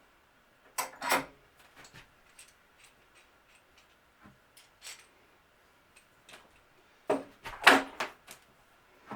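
Workpieces and tools being handled on a workbench: scattered clicks and light knocks, with two louder clusters of clattering knocks about a second in and again about seven seconds in.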